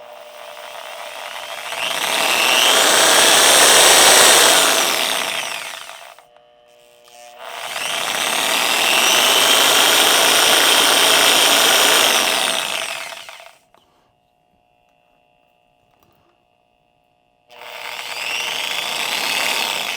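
A small electric cutting tool running in three long runs of several seconds each, swelling and fading, with short pauses between them, as it is tried on food.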